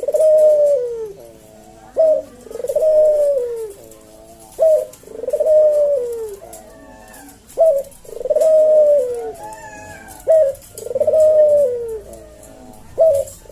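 A Barbary dove (Javanese puter) cooing in a slow, even rhythm. Each call is a short sharp note followed by a long coo that falls in pitch, repeated about every two and a half to three seconds, five times.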